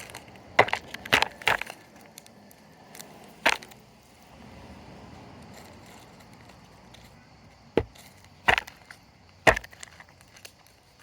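Chickens pecking at food, their beaks striking in sharp, irregular knocks: a quick cluster of three in the first two seconds, one more a little later, then three more after a long quiet stretch.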